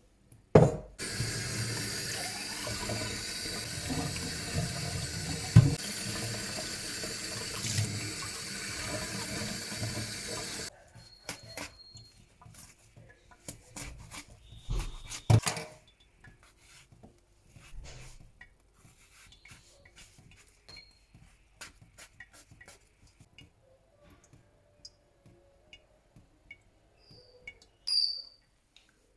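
Water tap running steadily for about ten seconds, then shut off abruptly. Scattered clicks and knocks follow, with a couple of short high chirps near the end.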